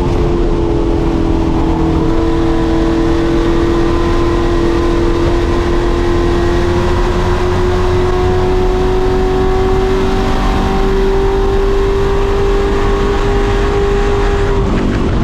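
Pro Truck race truck engine running at sustained high revs, its pitch creeping slowly upward, then changing abruptly near the end.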